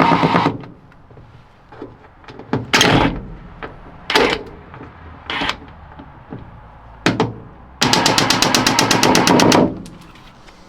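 Power tool running in short bursts with a rapid rattling hammer, about ten strokes a second: a burst at the start, four short blips, then a longer run of about two seconds near the end.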